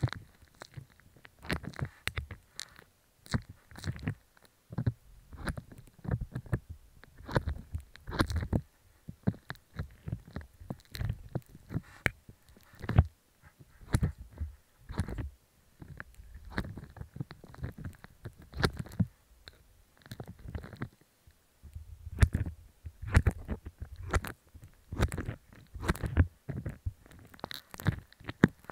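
Slime being squished and kneaded right against an earphone microphone: irregular wet squelches and sticky pops, several a second, with sharper clicks in among them.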